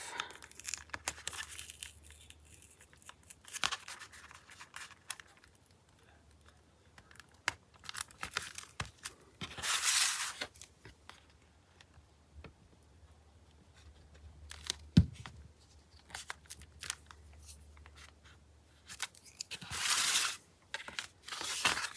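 Paper pages being handled and slid against each other, with intermittent rustles, a few light taps, and two longer swishing rustles about halfway through and near the end.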